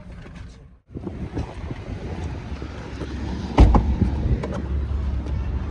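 Wind buffeting the microphone in a low, even rumble that gets heavier about three and a half seconds in, with a single loud thump at that point.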